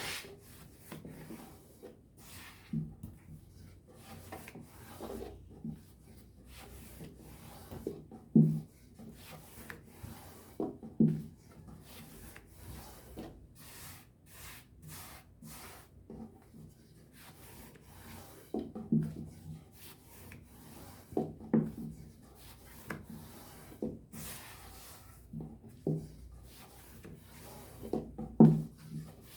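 Dough being rolled out by hand with a wooden rolling pin on a board: repeated rubbing strokes with irregular knocks of wood on wood.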